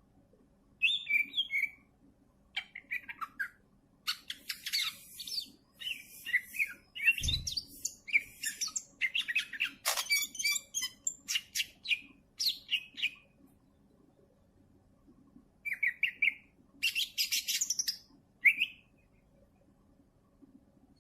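Cucak ijo (green leafbird) singing in bursts of rapid, varied chirps and whistled notes, with a pause of about two seconds past the middle and one short last phrase near the end. A soft low thump sounds once about a third of the way in.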